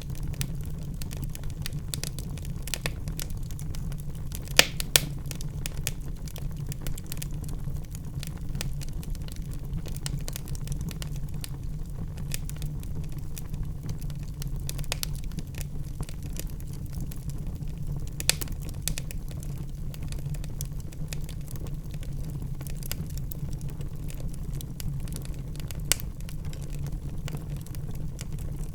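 Wood fire burning in a fireplace: a steady low rumble of flames with scattered sharp crackles and pops, a couple of louder pops about five seconds in.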